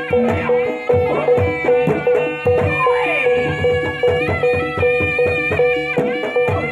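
Traditional jaranan barongan music: hand-drum beats under a reedy wind-instrument melody, over a steady high ringing note that sounds all the way through.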